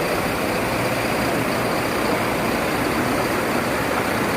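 Steady, even rush of water, as from fast-flowing floodwater or heavy rain.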